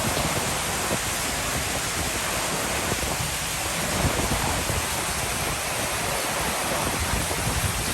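Heavy rain pouring down in a steady downpour, a dense even hiss without let-up.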